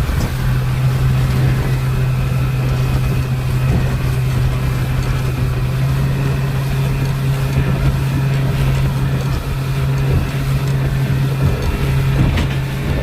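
Speedboat engine running at a steady pitch under a constant rush of wind and water noise, with a single thump near the end.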